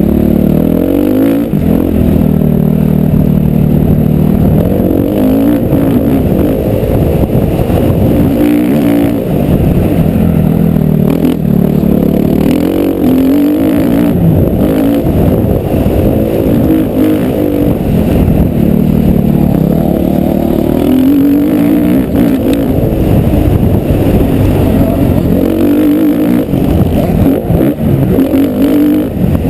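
Motocross bike engine running loud, revving up and dropping back over and over as the throttle is opened and shut, its pitch rising and falling every few seconds.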